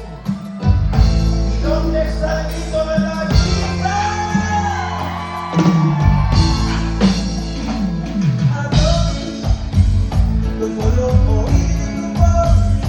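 Live cumbia band playing, with bass, guitar and percussion under a sung vocal line.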